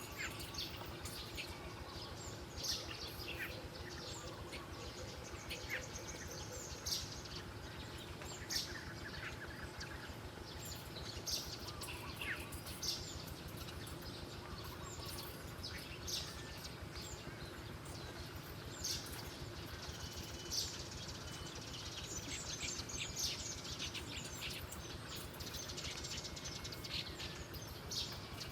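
Birds chirping in short, sharp high calls, scattered irregularly every second or two, over a steady low background hiss.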